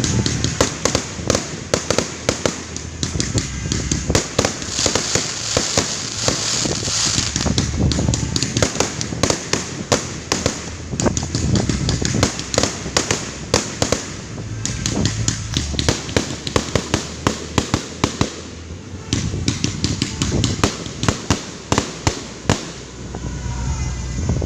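Fireworks going off in quick succession: a continuous run of sharp bangs and pops, several a second, with a dense crackling patch about a quarter of the way through.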